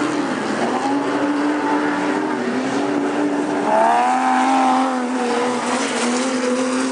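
Super stock race cars' engines running hard around a speedway track, the pitch rising and falling through the turns. One engine swells louder and climbs in pitch about four seconds in as a car passes close.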